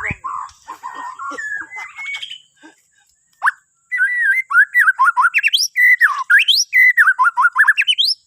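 Borneo white-rumped shama (murai batu) singing. Softer scattered notes come first, then after a short pause a fast, loud run of varied whistles, many of them sweeping sharply upward.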